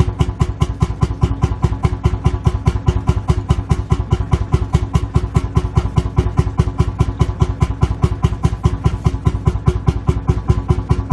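Lanz Bulldog tractor's single-cylinder two-stroke hot-bulb engine idling, a steady, even thumping at about four to five beats a second.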